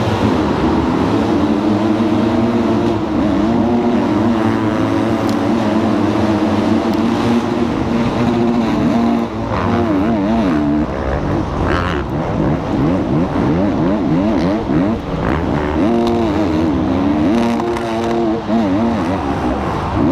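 Several supercross dirt bike engines running together, their revs rising and falling as the riders work the throttle, with quick repeated up-and-down revving in the middle and again near the end.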